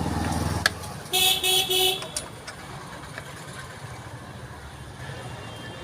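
A vehicle horn gives three short toots in quick succession about a second in, over a low traffic rumble, with a sharp click just before.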